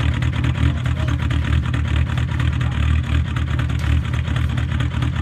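VW ALH 1.9 TDI four-cylinder diesel idling cold with no throttle, a steady, even diesel clatter. The engine has just been started at about −14 °C with two of its glow plugs dead.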